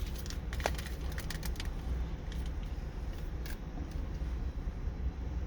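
A steady low rumble, with faint scattered clicks and crinkles, most of them in the first two seconds and one more a little past the middle.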